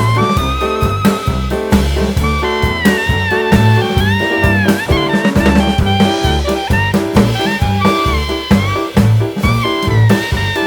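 Jazzy background music: a brass or saxophone melody over drums and a bass line with a steady beat.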